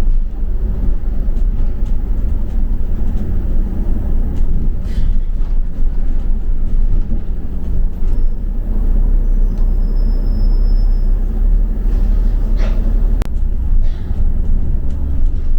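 A double-decker bus in motion, heard from inside: a steady low rumble of engine and road, with a few faint knocks and rattles and a sharp click about 13 seconds in.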